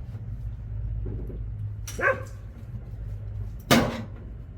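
A dog barks about two seconds in, and a sharper, louder sound follows just before four seconds, over a steady low hum.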